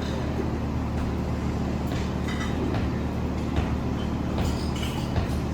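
Steady low rumble of a running vehicle, with light rattles and squeaks over it.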